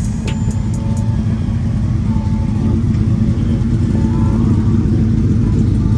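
A car engine running with a low rumble that grows gradually louder.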